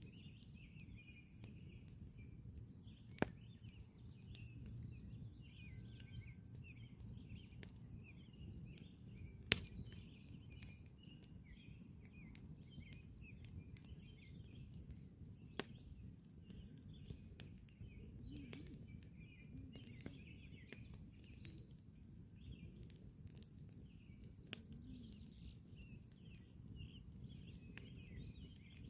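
Campfire crackling, with a few sharp pops standing out, the loudest about a third of the way in, over a low steady rumble. Small birds chirp continuously behind it.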